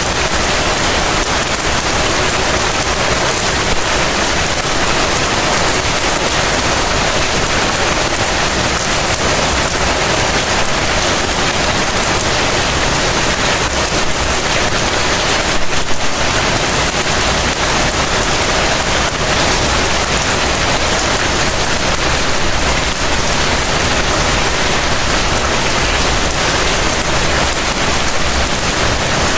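Heavy rain falling steadily, an even hiss of countless drops, with one brief louder moment about halfway through.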